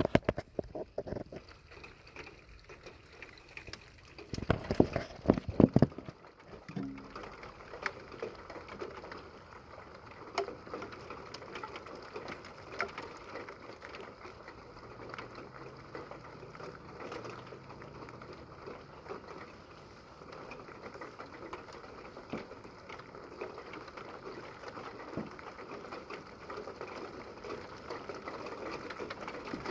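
Rain falling steadily in a thunderstorm, a fine crackling patter of drops. There are loud thumps right at the start and a cluster of heavier low thuds about five seconds in.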